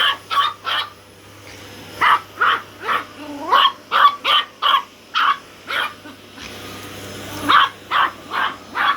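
Chihuahua barking in quick, high, sharp runs of yaps, about sixteen in all with two short pauses, over a steady low hum. The barking is defensive barking at a vacuum cleaner that the dog hates.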